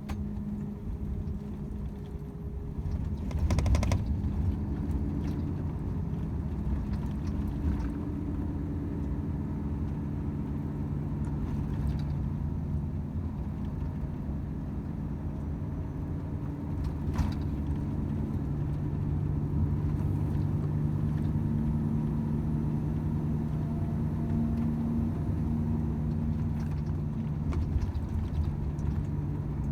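Volvo FH 500 truck's 13-litre six-cylinder diesel running steadily on the road, its drone shifting a little in pitch, over road rumble. A loud knock about four seconds in, and a fainter click later.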